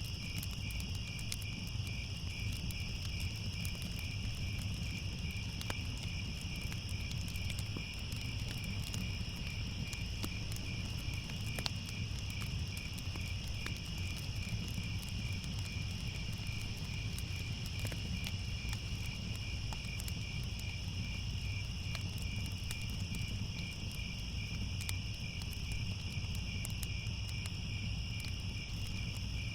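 Crickets chirping in a steady, unbroken chorus over a low rumble, with scattered faint crackles of a wood fire.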